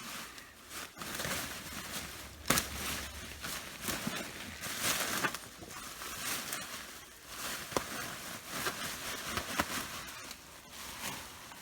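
Sweet potatoes being dug out of dry soil under plastic mulch: irregular crackling and rustling with scattered sharp clicks, and one sharp knock with a brief low thud about two and a half seconds in.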